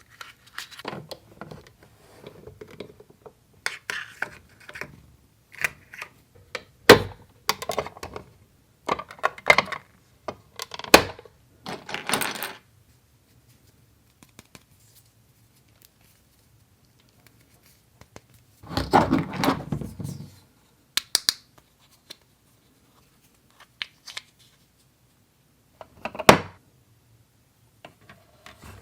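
Small toy kitchen pieces and play food being handled and set down: scattered clicks, taps and short rustles. A pause of several seconds comes midway, followed by a longer rustle.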